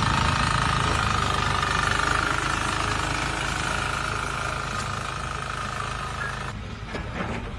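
Machinery running loudly and steadily, with a low rumble and a constant whine; it drops away to a quieter background about six and a half seconds in.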